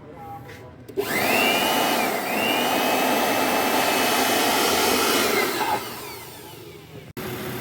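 Compressed-air blow gun blasting for about five seconds from about a second in: a loud hiss with a high whistle that dips once, blowing water out of the spark plugs of a misfiring engine.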